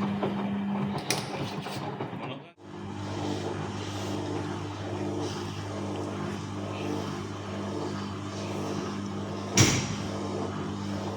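Vintage Bauknecht WAS 1400 washing machine running with a steady motor hum. The hum drops out briefly about two and a half seconds in and comes back at a lower pitch. A single sharp knock sounds near the end.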